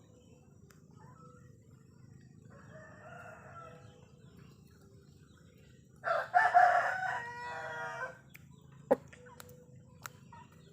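A rooster crows once, loud, for about two seconds, starting about six seconds in, after a fainter call a few seconds earlier. A single sharp knock follows near the end.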